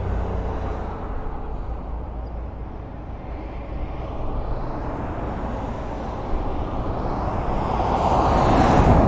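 Highway traffic: a steady rumble of tyres and engines on the road. Near the end one vehicle passes close, swelling to the loudest point just before the end and then fading.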